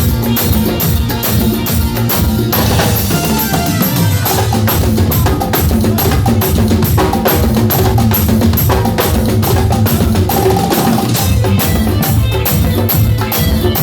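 Live band music led by a drum kit keeping a steady, evenly spaced beat, with sustained melody instruments underneath.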